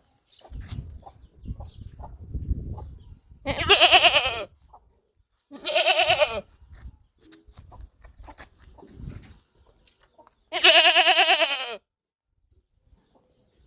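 Goat bleating three times, each call a loud, quavering bleat of about a second, the last one the longest. A low rumble sits under the first few seconds.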